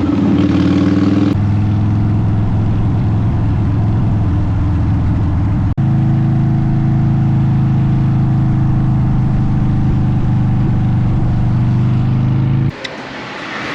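Motorcycle engine running at a steady speed through aftermarket Bassani Ripper exhaust pipes, a constant, even note with no revving. There is a brief dropout about halfway through, and the sound cuts off abruptly near the end.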